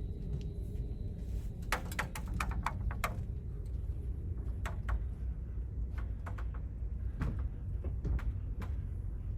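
A steady low rumble with a quick run of sharp clicks and knocks about two seconds in and a few more scattered through the rest.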